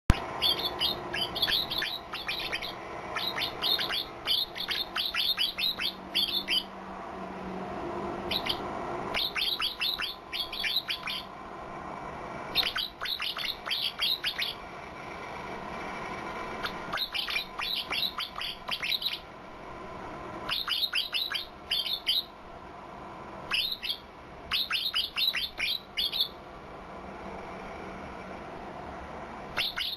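A pleci (white-eye songbird) singing in rapid, high twittering phrases of a second or two each, repeated again and again with short pauses between. It is an unusual song, rich in learned 'isian' (filler) phrases.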